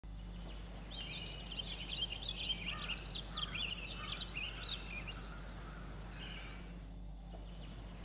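Bird song: a rapid warbling run of high chirps and whistles starting about a second in and fading out near the end, over a steady low hum.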